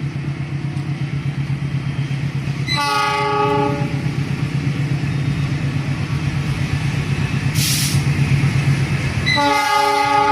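Train running with a steady low rumble and rhythmic clatter. Its horn sounds twice, for about a second about three seconds in and again near the end, with a short hiss in between.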